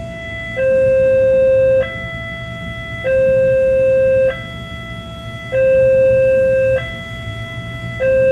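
Railway level-crossing warning alarm sounding a two-note electronic chime, a lower note and a higher note alternating about every 1.2 seconds, the signal that a train is approaching and the crossing is closed. A steady low rumble runs underneath.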